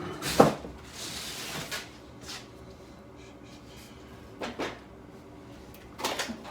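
Knocks and clunks of parts being handled during work on an old motorcycle: a sharp knock about half a second in, a short hiss soon after, and more knocks near the end.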